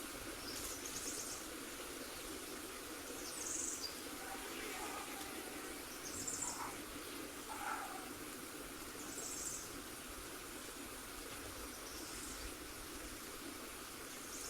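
Short high-pitched bird chirps repeating about every three seconds over a steady hiss, with a few fainter, lower chirps between them.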